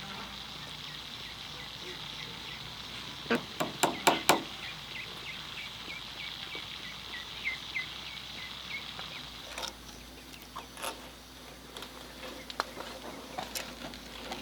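Steady insect buzzing outdoors, with a run of small chirps in the middle. About three seconds in comes a quick cluster of four or five sharp knocks, and a few single knocks follow later.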